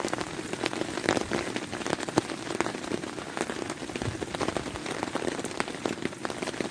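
Heavy rain pouring down onto a camping tarp overhead: a dense, irregular run of drop hits over a steady hiss.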